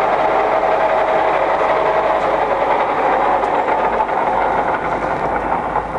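Microweily TY22100 centre lathe headstock running in its low speed range, a steady loud clatter of spindle gearing with a faint whine in the first two seconds. The seller calls the headstock a bit noisy.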